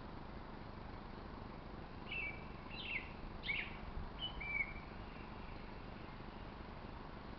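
A bird chirping: a quick run of five or six short call notes, some sliding down in pitch, between about two and five seconds in, over a steady background hiss.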